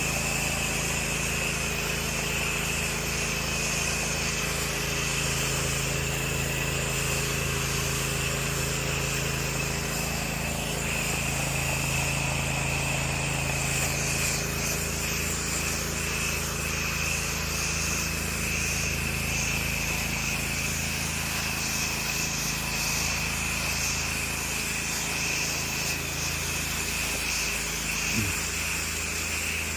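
Pressure washer running steadily, its engine drone under the constant hiss of water spraying from the wand.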